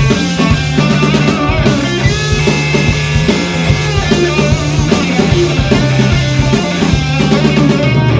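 Punk rock band playing live: drum kit, electric guitar and bass in an instrumental passage without vocals.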